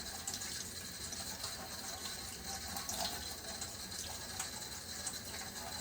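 Tap water running steadily into a sink, splashing irregularly as hands are rinsed under the stream.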